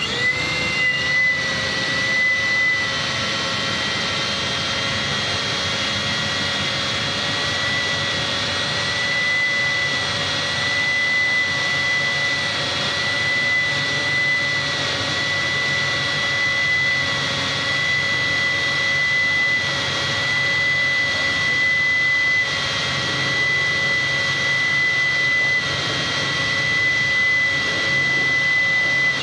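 Small FPV quadcopter (Reptile Cloud HD, Gemfan D76 propellers) with its brushless motors and propellers running, heard up close from a camera mounted on the drone. It makes a steady high whine with small dips in pitch as the throttle shifts, starting and stopping abruptly.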